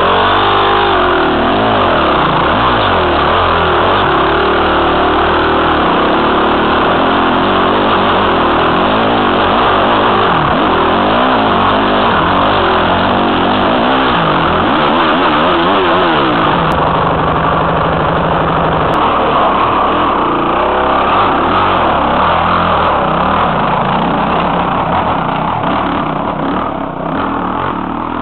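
Dirt bike engine heard from the rider's helmet, revving up and down with the throttle as the bike is ridden over a rough forest trail. It holds one steady note briefly about two thirds through and turns quieter and choppier near the end.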